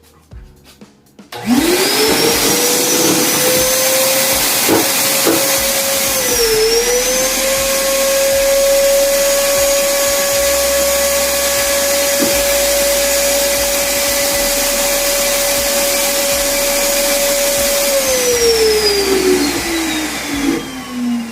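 PowerHouse 1,200-watt wet/dry vacuum cleaner switched on about a second and a half in and running with a steady high whine while sucking up water. Its pitch dips briefly about six seconds in, and near the end it is switched off and winds down with falling pitch.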